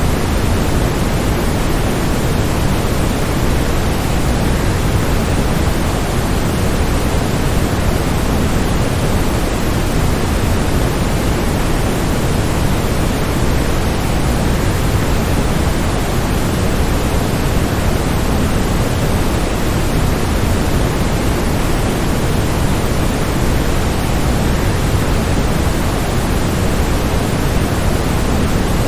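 Waterfall: a steady, unbroken rush of falling water, fullest in the low range, with no changes.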